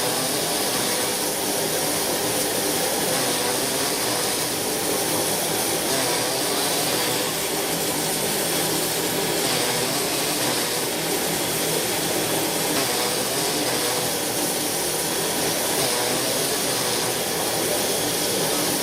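Steady running noise of a moving train, an even rumble and rush at a constant level throughout.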